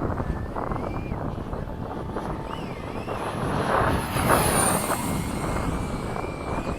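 High whine of a 70 mm electric ducted fan on a model F/A-18 jet in flight, falling in pitch a little past the middle as it passes, over heavy wind rumble on the microphone.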